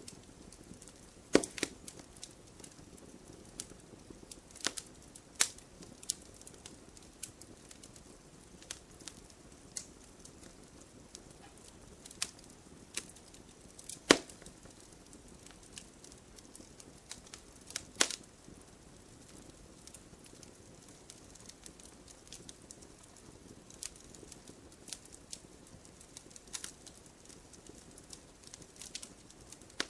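Wood fire crackling: irregular sharp pops and snaps over a low steady hiss of burning, with louder pops about a second in, at about five, fourteen and eighteen seconds.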